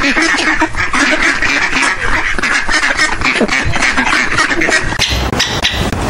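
A flock of waterfowl calling over one another: a dense, loud chatter of quacks and honks. About five seconds in, the calls give way to a different, choppier sound.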